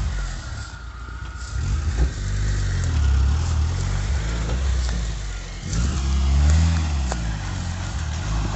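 LuAZ off-roader's VAZ-21083 four-cylinder petrol engine running, its revs rising and dropping back twice.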